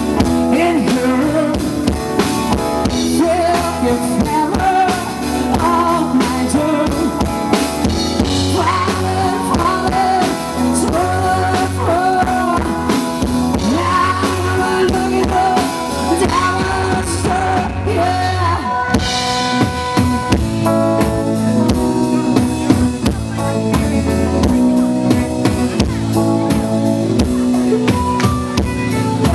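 A rock cover band playing live: drum kit, electric guitar and bass, with singing. The high cymbal sound drops out briefly just past the middle before the full band carries on.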